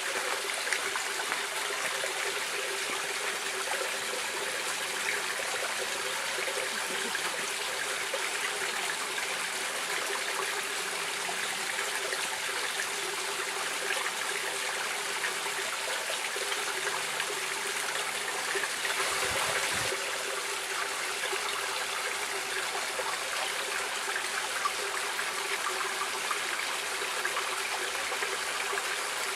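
Stream water flowing and trickling steadily over stones, an even rushing wash with no break, with a brief deeper surge about two-thirds of the way through.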